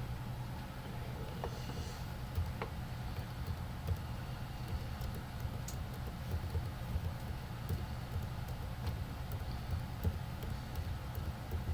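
A steady low hum with faint, scattered small clicks over it.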